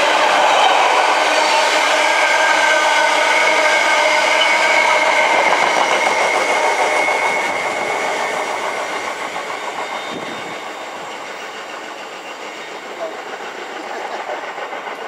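Container freight train's wagons rolling past, a steady rumble with high ringing tones over it. The sound fades from about halfway as the last wagons draw away, with a rhythmic clatter near the end.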